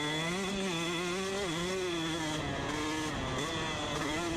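Two-stroke dirt bike engine revving under throttle, its pitch climbing and dipping several times as the rider works the throttle.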